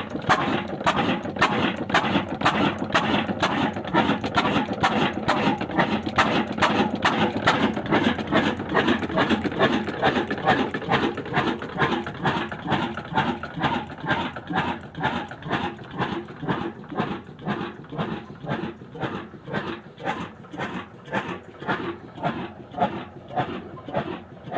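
Old single-cylinder Ruston Hornsby-type 'black' diesel engine running at steady speed with a slow, even chug of about two to three beats a second, a little quieter in the second half.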